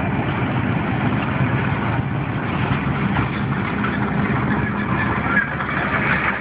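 Steady engine and road noise of a vehicle heard from inside the cabin as it drives.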